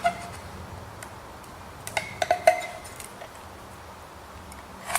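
A few light metallic clinks with a short ring, about two seconds in, and another click near the end, from steel marking-out tools being handled and set down on the metal workpiece, over a steady low hum.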